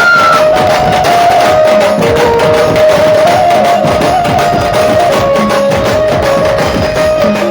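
Loud amplified dhumal band music: fast, dense drumming under a sustained melody line that steps between a few held notes.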